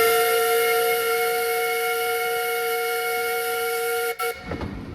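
Narrow-gauge steam locomotive's whistle blowing one long, steady blast, a chord of several pitches with a hiss of steam. It falters briefly and stops about four seconds in.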